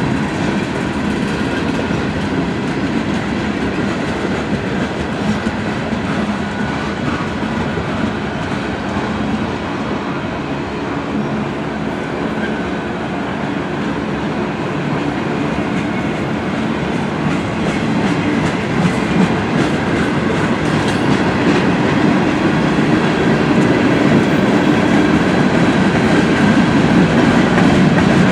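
Railroad cars rolling past at speed, their wheels clattering steadily over the rail joints. The noise grows louder over the last several seconds.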